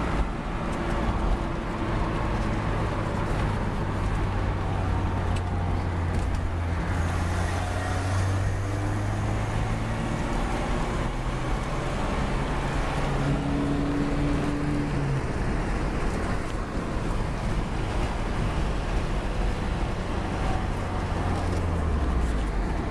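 1989 Alfa Romeo Spider Veloce's twin-cam four-cylinder engine running steadily under way, heard from inside the cabin of the convertible with road and wind noise. The engine note drops slightly near the end.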